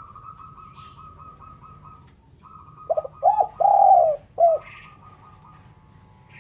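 Spotted dove (terkukur) cooing once, a phrase of two short notes, a longer drawn note and a short closing note, about three seconds in. A thin, rapid, higher-pitched trill runs before and after the coo.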